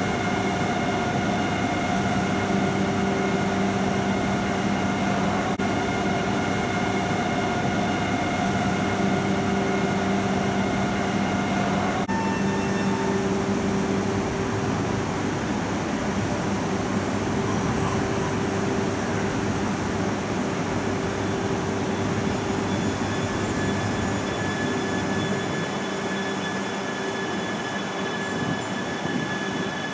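E3-series Shinkansen train standing at the platform, its onboard electrical equipment giving a steady hum of several held tones over a constant rushing noise. The set of tones changes abruptly about twelve seconds in, and a higher steady whine comes in later.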